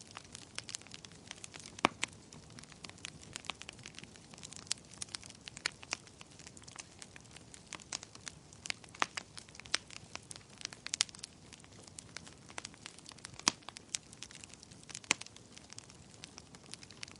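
Wood fire crackling in a fireplace: a steady stream of small irregular snaps and pops over a faint hiss, with a few louder pops about two seconds in and near thirteen and fifteen seconds.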